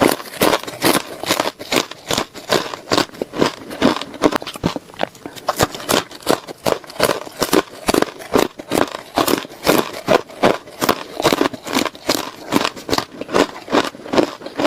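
Ice being bitten and chewed close up: a rapid, continuous run of sharp, brittle crunches, several a second.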